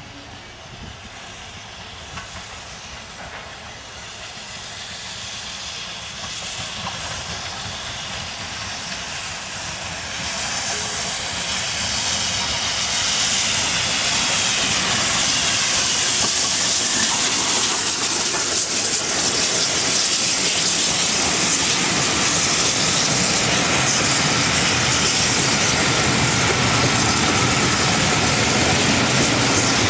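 Steam-hauled train behind the GWR Castle class 4-6-0 locomotive 5029 Nunney Castle approaching and running past. It grows steadily louder over the first half, then becomes a loud, steady rush and hiss.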